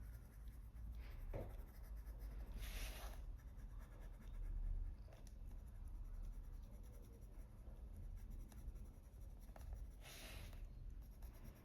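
Faint scratching of a Faber-Castell Polychromos coloured pencil shading on paper, layering colour in soft strokes, with two louder swishes about three seconds in and near the end.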